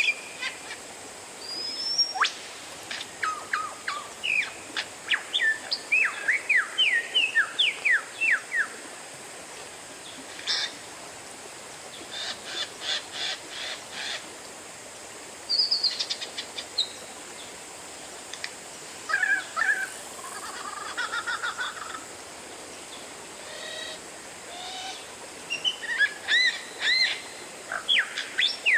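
Oriental magpie-robin (kacer) singing a loud, varied song: quick whistled notes sweeping up and down, and rapid trains of sharp chips, in bursts with short pauses between.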